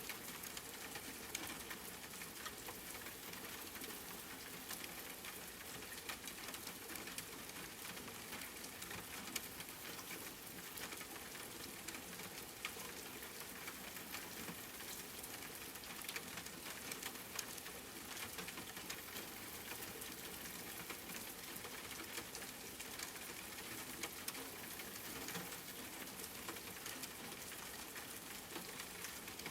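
Steady rain pattering on a surface, a dense even hiss sprinkled with many small drop ticks.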